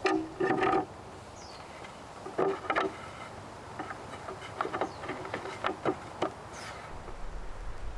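Birds calling in woodland: a series of short, harsh calls in small groups, and twice a thin, high falling chirp.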